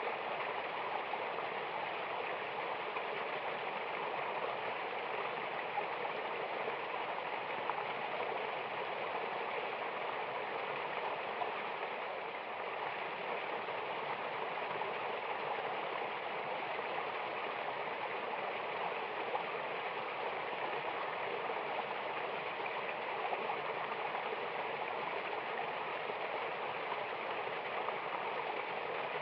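Mountain river and waterfall water rushing and splashing in a steady, even flow.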